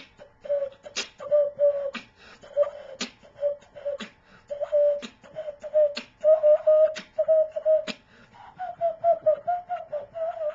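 Beatboxing with a cupped-hand whistle, blown between the thumbs, woven into the beat: short hooting whistle notes sound in time with the rhythm between sharp clicks and snare-like hits. Near the end the whistle notes go a little higher and run together more quickly.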